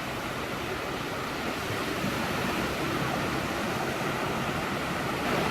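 Surf washing onto a sandy beach: a steady rush of waves.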